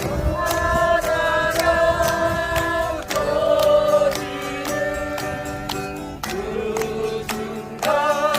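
Several voices singing long held notes together over a steadily strummed acoustic guitar.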